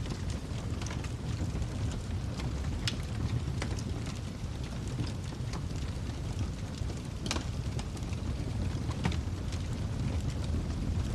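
Wood fire burning in a fireplace: a steady low rumble of the flames with scattered crackles and pops, two of them sharper, about three seconds in and a little past seven seconds.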